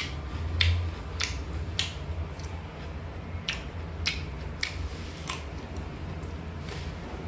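Close-up eating sounds: a person chewing a mouthful of food, with wet mouth clicks and smacks coming roughly every half second to second, over a steady low hum.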